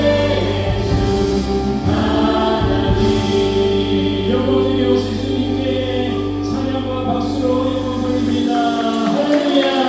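Live worship music: a praise team's voices singing long held notes over keyboards and a steady low bass. The low bass notes drop out near the end.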